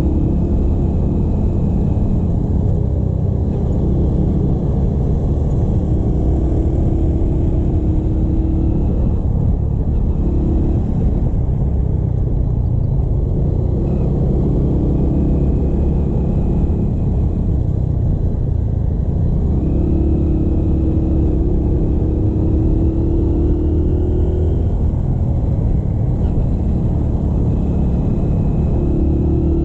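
Motorcycle engine on the move, under a steady low rumble, its note rising several times as the bike accelerates.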